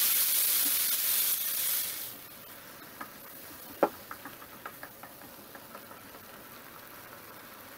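Chopped tomato, onion and green chili sizzling in a nonstick frying pan while being stirred with a wooden spatula. The sizzle dies away sharply about two seconds in as water is added to the pan. Light taps of the spatula follow, with one sharper knock nearly four seconds in.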